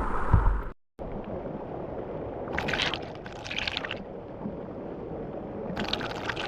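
Steady rush of waterfall water, with wind rumbling on the microphone in the first moment and two louder hissing surges later on.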